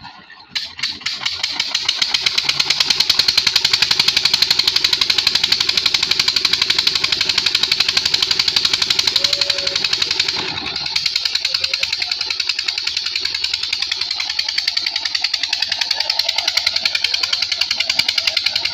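Borewell engine starting up and running with a fast, steady, regular beat. A little past halfway the lower part of the sound thins out and it settles slightly quieter.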